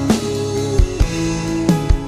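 Live gospel band playing an instrumental passage: sustained keyboard and guitar notes over a drum kit with steady kick-drum beats, no singing.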